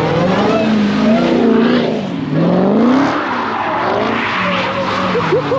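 A car doing a burnout or donuts: the engine revs rise and fall again and again while the tyres skid and squeal.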